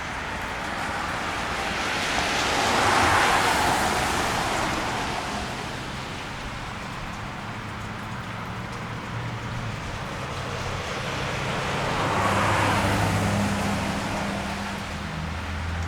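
Two cars passing one after another on a rain-wet street, their tyres hissing through the water as each swells up and fades, the first about three seconds in and the second about twelve seconds in, over a steady wash of rain and road noise.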